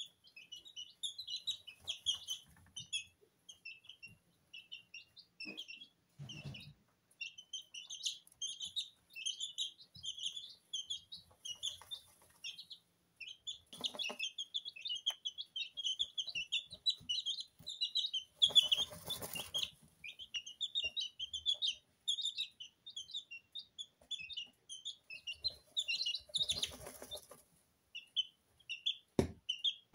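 Two-week-old Sablepoot bantam chicks peeping continuously in quick, high-pitched chirps. A few short rustling bursts break in, the longest about two-thirds of the way through, as the chicks scratch and dust-bathe in their feed, and a low thump sounds near the end.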